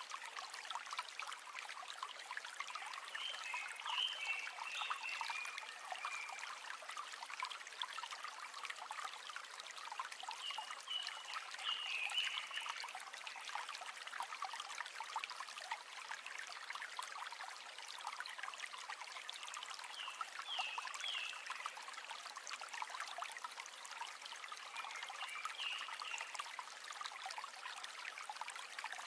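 River water flowing and trickling steadily over stones, full of small splashes. Short high chirps come every several seconds.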